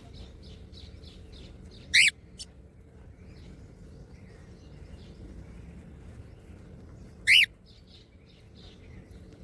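Small pet parrots calling: two loud, short, shrill calls about five seconds apart, with soft quick chirping in the first second or so.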